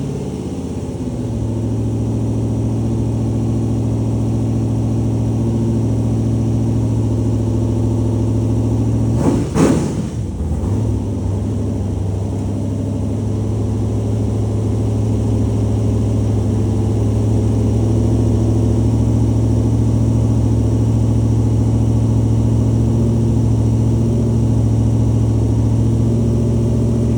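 LT1 V8 engine idling steadily just after its first start on a basic Holley Terminator X wizard tune. The idle is briefly disturbed about nine seconds in.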